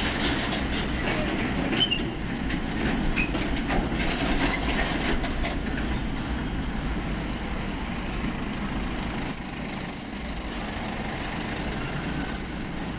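Heavy container trucks passing close by: a steady low rumble of engines and tyres, with sharp clanks and rattles from the trailers in the first few seconds.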